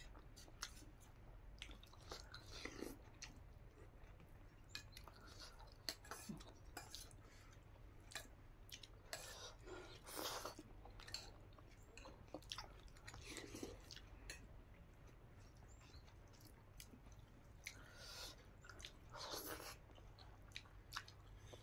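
Faint chewing of a person eating rice and vegetables by hand, with scattered mouth smacks and small clicks.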